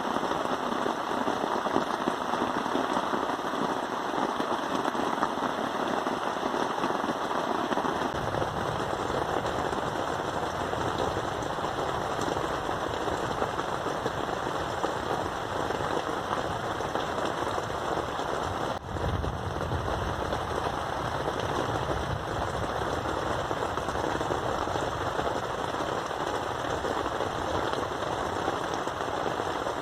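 Rain falling steadily and pattering densely on a surface. The sound grows fuller and deeper about eight seconds in, and breaks off for an instant a little past halfway.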